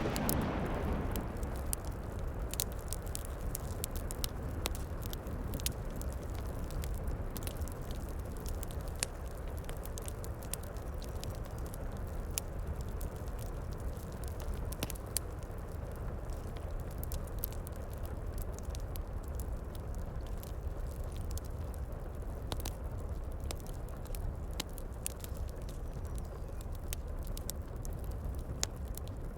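Wood fire crackling with frequent sharp pops over a steady low rush of heavy rain. A loud rumble, like a thunderclap, dies away in the first second.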